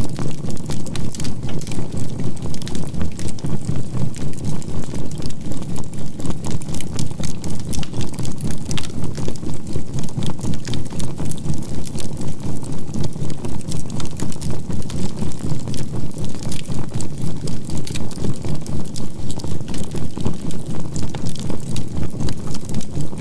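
Synthetic healing-sound track: a low drone pulsing evenly about three times a second, typical of a binaural-beat track, with a faint steady 528 Hz tone. Underneath, a burning charcoal fire crackles with scattered small pops.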